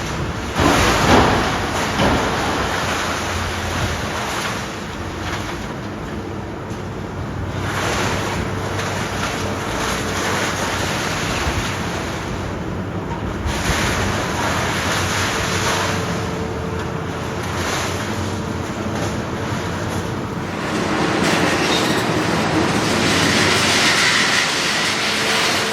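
Demolition machinery at work, most likely a tracked excavator: its engine running steadily under a continuous clatter and crunch of metal and broken concrete, loudest about a second in and swelling again near the end.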